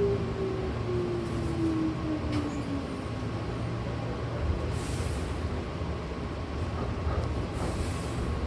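Hankyu commuter train slowing into a station: the motor whine falls steadily in pitch over the first three seconds above a steady running rumble, then two short hisses of air, one about halfway through and one near the end.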